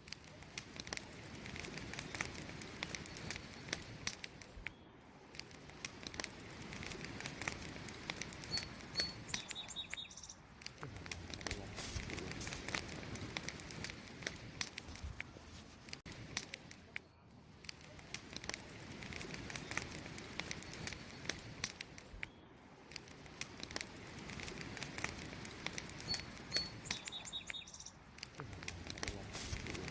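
Wood campfire crackling: a dense, irregular run of small pops and snaps over the steady hiss of burning wood, swelling and easing every few seconds. A couple of faint, short, high chirps come twice, once near the middle and once near the end.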